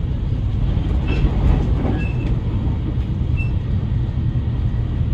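Relay Kamome limited express train running along the line, heard from inside the passenger car: a steady low rumble of wheels on rails, with a few brief faint high squeaks.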